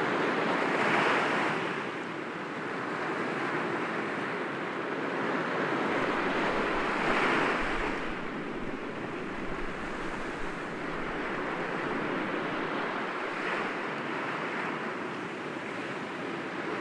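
Sea waves breaking gently against rocks, with a steady wash of surf. Louder surges come about a second in and again around seven seconds, and a smaller one near the end.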